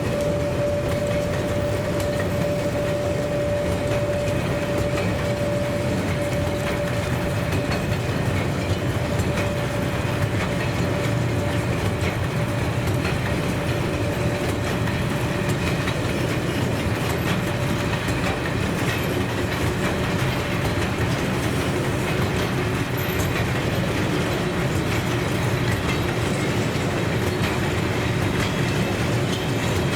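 Train rolling past at steady volume, with a steady tone that fades away over the first several seconds and a fainter one later.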